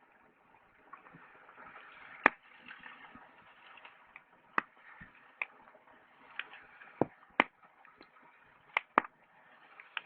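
Wood campfire crackling: irregular sharp pops and snaps of burning wood over a soft hiss of flame, the loudest pop about two seconds in.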